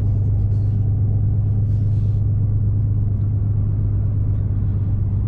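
Steady low drone of a car driving, heard from inside the cabin: engine and road rumble.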